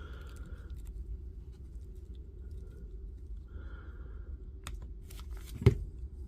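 Small handling noises of work at a bench: faint clicks and rustles, then one sharp knock about five and a half seconds in, over a steady low hum.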